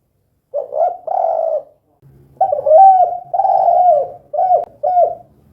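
Spotted dove (tekukur) cooing in its 'kuk 2' style: a short two-part coo about half a second in, then a longer phrase of drawn-out coos ending in two short clipped notes.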